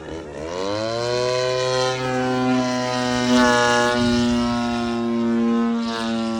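Small engine of a Zivko Edge 540 RC model aerobatic plane, its pitch climbing steeply in the first second as it is throttled up, then held at high revs with slight wavers.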